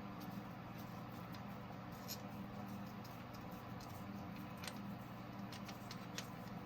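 Scattered light clicks and taps of hand tools and engine parts being handled during injector removal, over a steady low hum.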